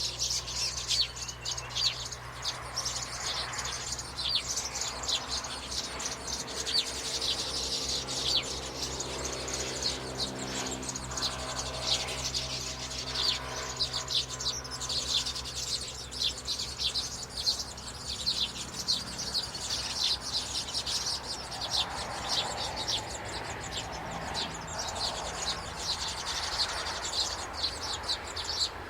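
Many small birds chirping rapidly and continuously in high, short notes, over a steady low hum.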